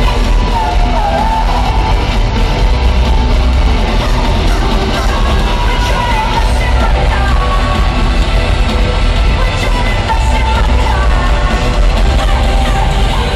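Live rock band playing loud and steady, with a lead vocal and crowd singing over distorted guitars and heavy bass, recorded on a phone from within an arena audience.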